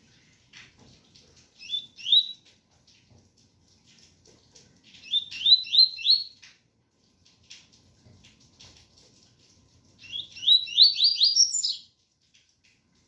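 Double-collared seedeater (coleiro) singing its 'tui tui' song: three phrases of quick, rising whistled notes, the last one the longest. A faint, even hiss like rain fills the gaps between phrases.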